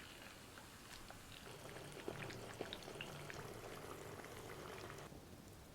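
Ajillo simmering in a sierra cup: olive oil bubbling, with many small irregular pops and crackles over a faint steady hiss.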